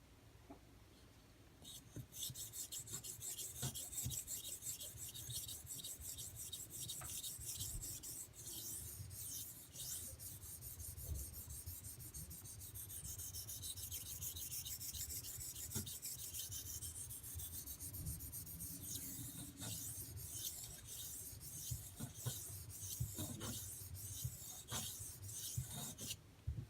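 D2 steel knife blade rasping back and forth across a fine-grit Arkansas water stone in repeated sharpening strokes under light hand pressure. It starts about two seconds in and stops just before the end.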